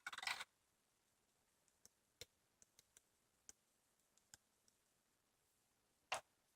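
Near silence with a few faint, scattered clicks and a sharper click near the end.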